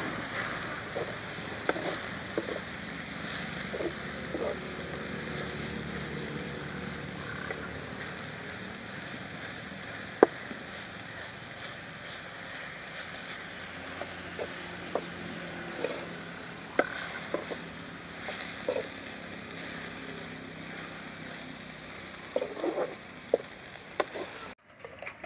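Drumstick (moringa) leaves sizzling as they fry in a metal pot, with a metal slotted spoon scraping and clinking against the pot as they are stirred. One clink about ten seconds in is much sharper than the rest, and the sound cuts off abruptly near the end.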